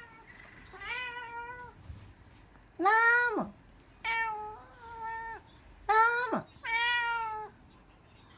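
Siamese-mix cat meowing repeatedly: about six separate meows in quick succession, some short and some drawn out.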